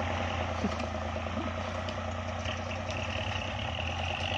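Diesel tractor engine running steadily under load while ploughing. A high, steady whine joins in about halfway through.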